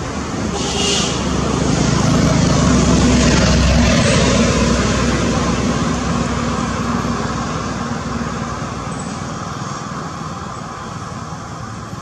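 A motor vehicle passing by: steady engine and road noise swells to a peak about three to four seconds in, then fades away slowly.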